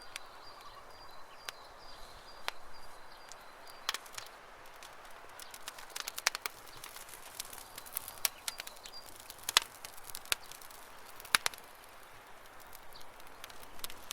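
Campfire crackling, with irregular sharp pops and snaps over a soft hiss. A thin, high bird call is held through the first few seconds and comes again briefly near the middle.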